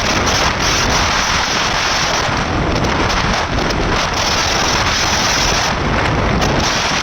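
Heavy wind rush and buffeting on the microphone of a moving motorcycle, mixed with the hiss of tyres on a rain-soaked road.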